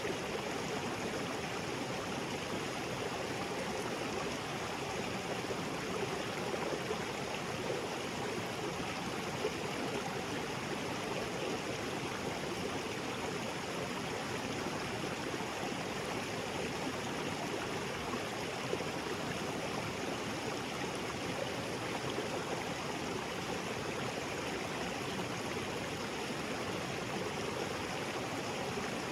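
Small waterfall splashing into a rocky jungle creek, a steady rushing and gurgling of water that does not change.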